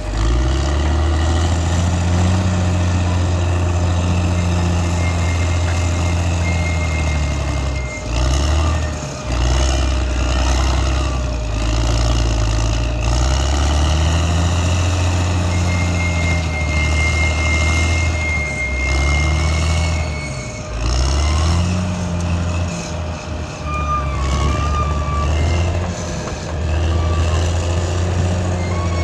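Caterpillar D6R XL bulldozer's diesel engine running hard, its pitch sagging and recovering several times as the load changes. A thin, high whine comes and goes over it.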